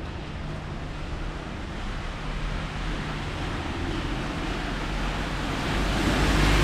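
Steady rain over a wet street while a vehicle approaches, its tyre hiss on the wet road and low engine rumble growing louder toward the end.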